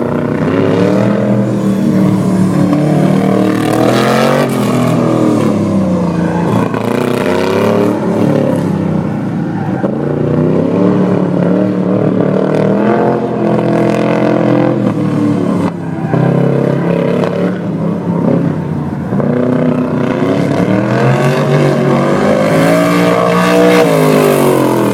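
Old Chevy truck's engine revving up and falling back again and again as it accelerates and lifts between cones on an autocross course.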